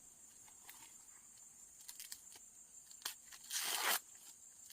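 Dry corn leaves and husks crackling and tearing as corn is harvested by hand, in scattered faint crackles with one longer, louder tear about three and a half seconds in.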